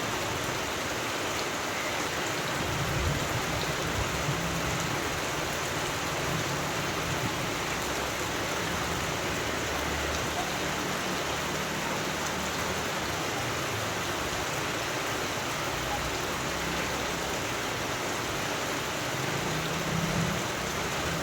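Steady rain: an even, dense hiss, with a low rumble about three seconds in and again near the end.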